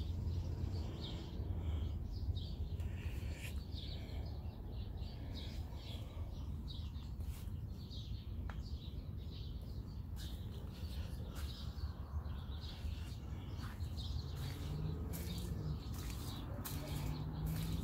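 Small birds chirping and twittering in many short, quick calls, over a low steady rumble.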